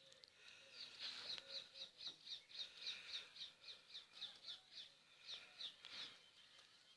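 A bird calling in a quick, even run of about twenty short, high notes, roughly four a second, each dropping slightly in pitch. The run lasts about five seconds and then stops.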